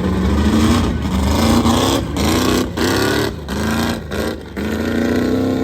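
A truck's engine revving hard under full throttle, its pitch climbing in surges and cutting off briefly several times as the throttle is lifted and reapplied, then holding high near the end.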